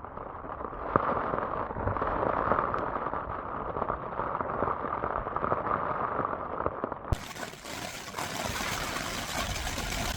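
Steady rain and wind noise with scattered small taps. About seven seconds in, the sound abruptly turns brighter and hissier.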